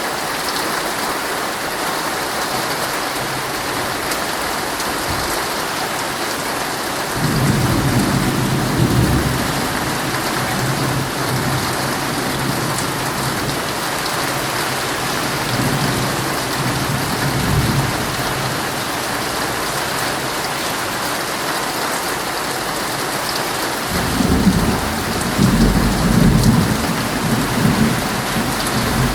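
Heavy rain falling steadily on a tent, an even hiss. Low thunder rumbles swell in about seven seconds in, again around sixteen seconds, and a longer, louder one near the end.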